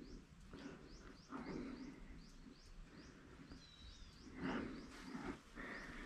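Faint bird chirping: short, high chirps repeated in quick runs, with a longer falling whistle about three and a half seconds in.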